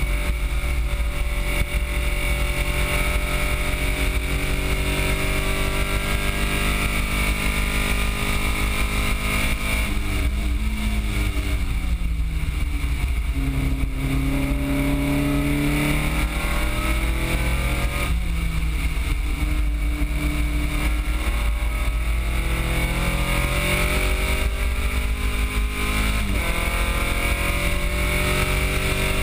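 1971 VW Beetle's 1776cc Type 1 air-cooled flat-four engine driven hard on a track lap, heard from inside the car. Its note climbs steadily for long stretches, falls away in the middle under braking, then climbs again with sudden drops at gear changes, over a constant rush of wind and road noise.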